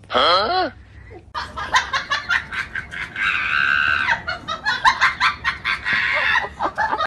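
A cat vocalising: a short wavering yowl, then a run of rapid clucking, chirping chatter with a longer drawn-out cry about three seconds in.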